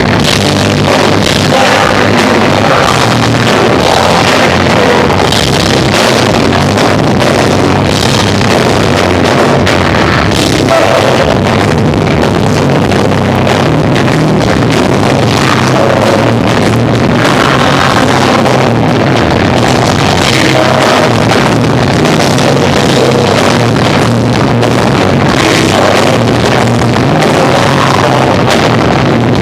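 Rock band playing live, with electric guitar, bass guitar and drums. The recording is loud and distorted throughout.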